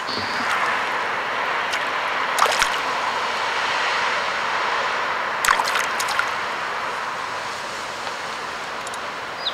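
Steady rushing and trickling of water, with sharp clicks about two and a half and five and a half seconds in.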